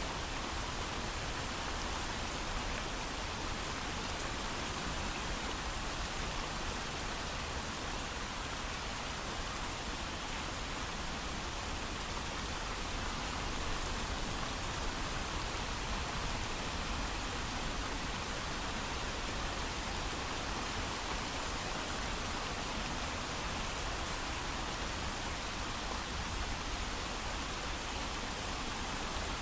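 Steady heavy rain with no thunder, an even hiss of falling rain with faint scattered drop ticks.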